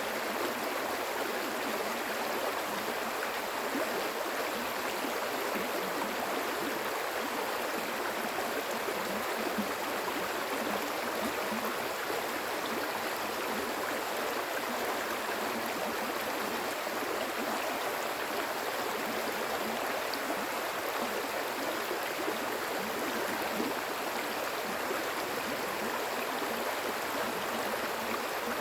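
Flowing water: a steady, unbroken rush of a stream, with no pauses or changes.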